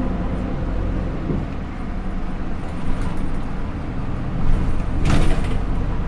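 Hino Rainbow II bus's Isuzu 4HK1-TCH four-cylinder turbo diesel running steadily, heard from inside the cabin, with a short loud burst of noise about five seconds in.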